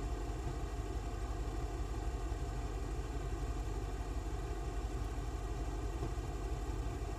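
Steady low rumble with hiss and a faint hum, unchanging, with no distinct events.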